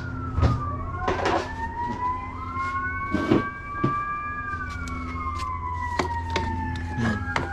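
Two or more sirens wailing slowly, their pitches overlapping as they rise and fall. Sharp clicks and knocks of hand tools and a steady low hum run underneath.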